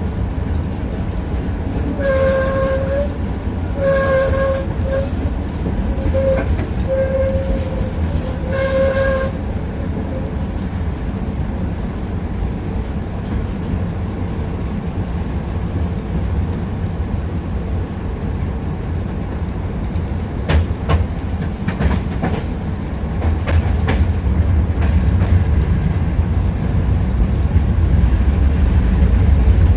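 Tram running on its rails, heard from inside the car: a steady low rumble of wheels and motors. A short steady tone sounds about five times in the first ten seconds, a cluster of sharp wheel clacks over rail joints comes later, and the rumble grows louder near the end.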